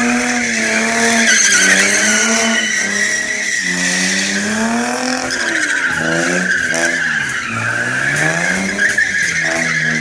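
Car engine revving up and down repeatedly while its tyres screech continuously, as in a burnout or drift.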